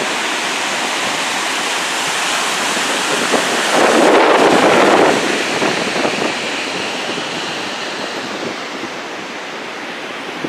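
Storm waves on Lake Michigan crashing and surging, with strong wind buffeting the microphone. A bigger wave breaks about four seconds in, and the wash then slowly dies down.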